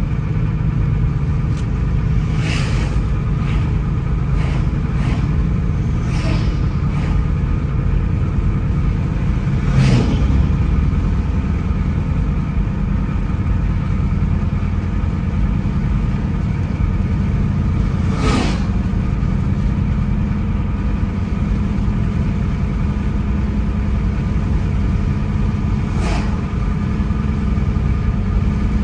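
Car driving along a road: a steady low rumble of engine and tyres, with several short sharp knocks scattered through it, the loudest about ten, eighteen and twenty-six seconds in.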